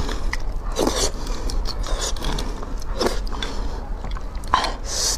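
Close-miked eating sounds of a person chewing soft braised beef bone marrow, with a few short wet bursts and scattered sharp clicks.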